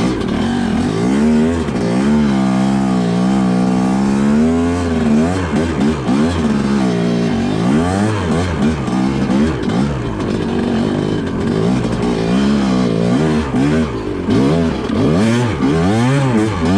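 TM Racing MX250 two-stroke dirt bike engine revving up and down repeatedly as the bike is ridden, its pitch rising and falling in waves.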